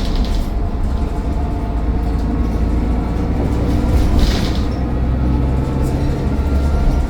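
Mercedes-Benz Citaro O530 bus engine running steadily with a low rumble, heard on board, with a brief hiss about four seconds in.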